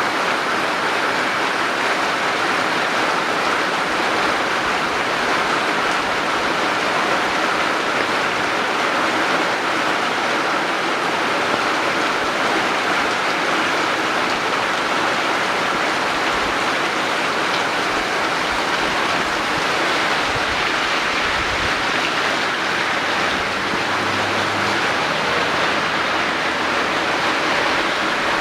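Steady rushing of running water, an even, unbroken hiss.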